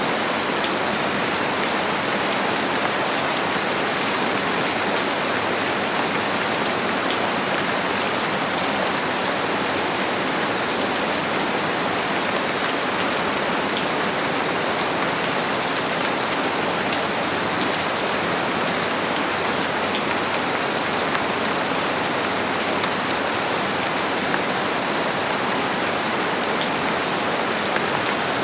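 Steady heavy rain falling on a surface: a constant hiss with many small, sharp drop patters.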